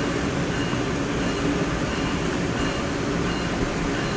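Steady rumble and hum inside an NJ Transit passenger railcar.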